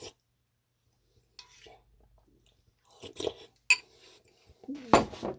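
Kitchenware being handled: a few scattered clinks and knocks of pans and utensils, the loudest near the end.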